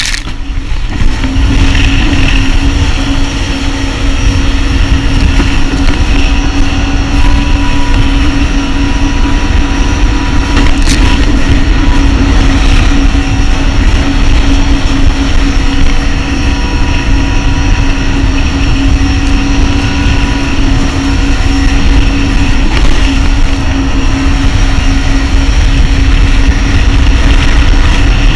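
Jet ski engine running steadily at speed, with heavy wind and water rush on the microphone; its pitch holds level throughout after a brief dip in loudness at the very start.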